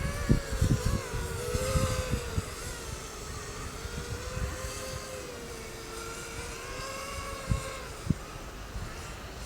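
ZMR250 FPV racing quadcopter's motors whining in flight, the pitch rising and falling as the throttle changes, with wind rumbling on the microphone, heaviest in the first two seconds. Two short thumps come about three-quarters of the way through.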